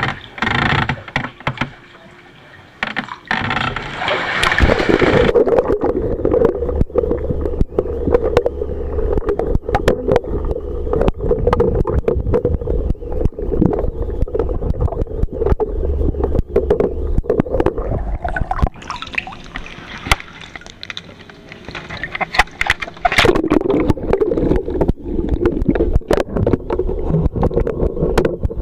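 Water splashing and sloshing around a sea kayak under way, with many short splashes and knocks over a steady low drone that fades out for a few seconds past the middle and then returns.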